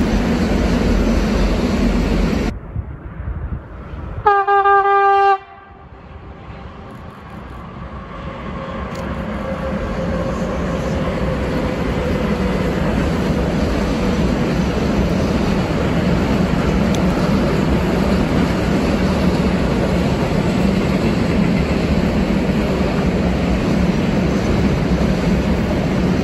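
A train's rumble cuts off abruptly. Then a locomotive horn sounds one single-pitch blast lasting about a second. A freight train's rumble and wheel clatter swell over several seconds and then run on steadily as it rolls past.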